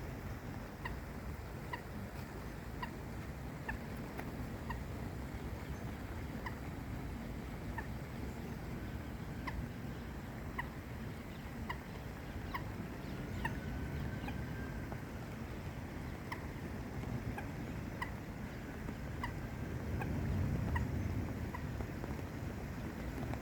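A bird repeating a short, high call about once a second, over a steady low rushing background noise that swells briefly near the end.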